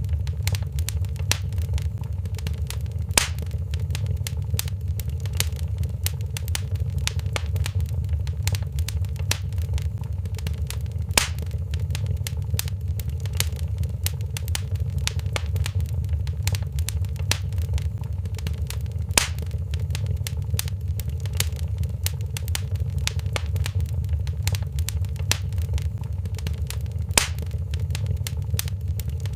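Fireplace fire crackling: a steady low rumble of the burning fire under a constant patter of small crackles, with four louder pops about eight seconds apart.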